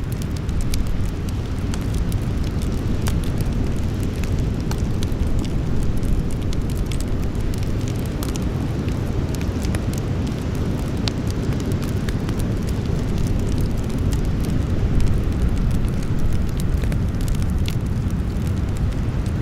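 Campfire burning: a steady low rumble with many irregular sharp crackles and small pops of burning wood.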